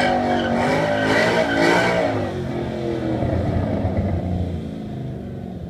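2014 Ford Mustang GT's 5.0-litre V8 revving hard under power, then fading as the car pulls away after about two seconds.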